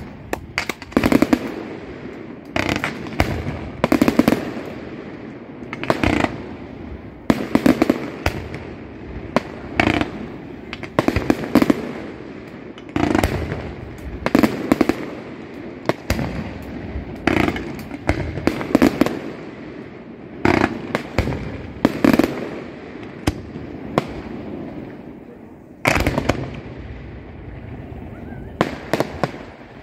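Aerial fireworks shells bursting in quick succession: sharp bangs about every one to two seconds, each trailing off in a rumbling echo, sometimes two or three close together.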